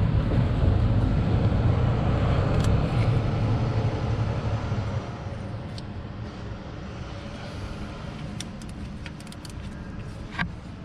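Low, steady rumble of a motor vehicle, loud for about five seconds and then fading, with one sharp knock near the end.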